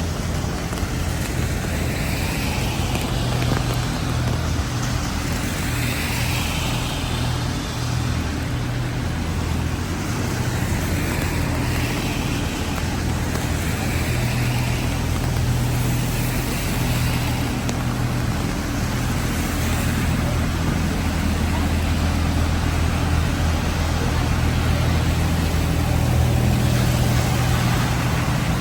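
Street noise in heavy rain and strong wind: a steady wash of rain with a continuous low rumble.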